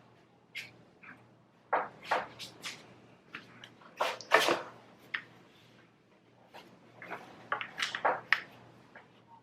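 Small metal tool clicking and scraping against the piston as a wrist-pin circlip is pried out. The clicks and short scrapes come in irregular clusters, loudest about four and a half seconds in.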